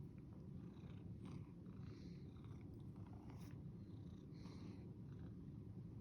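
Domestic cat purring, a faint, steady low rumble.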